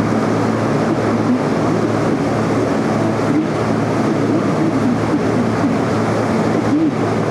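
Tour boat's engine running with a steady low hum under a constant rush of wind and water, heard from the open deck.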